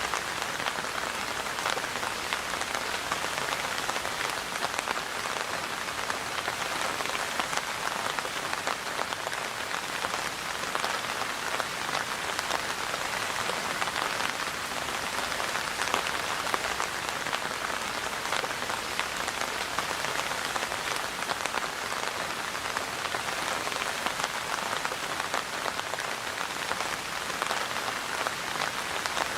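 Steady rain falling and pattering on a surface, a dense even hiss made of many fine drop ticks.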